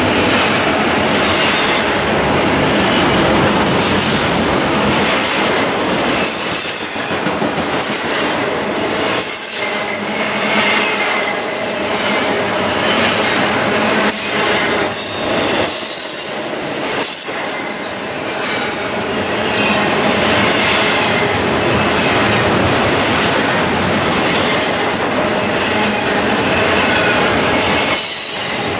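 Double-stack intermodal freight train's well cars rolling past at speed: a loud, steady rumble of steel wheels on rail, with high wheel squeals that come and go several times.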